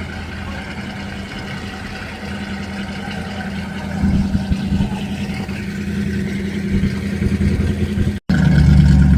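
Car engine fitted with exhaust cutouts, running with a steady low exhaust rumble. It gets louder about four seconds in, breaks off for an instant near the end, then comes back louder.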